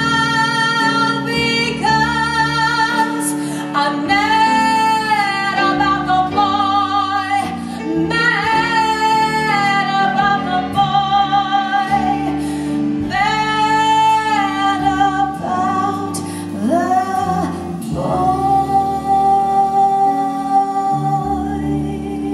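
A woman singing a jazz ballad in long, held notes with vibrato, backed by a piano, bass and drums trio. The last note fades near the end.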